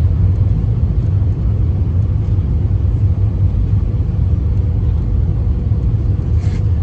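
Steady low rumble of airliner cabin noise inside an Airbus A319, from engines and airflow during the approach, with a faint click near the end.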